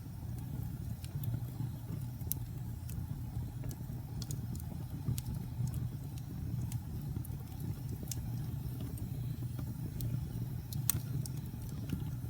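Wood fire burning in a fireplace: a steady low rumble of flame with irregular sharp crackles and pops of the burning logs. One pop near the end is louder than the rest.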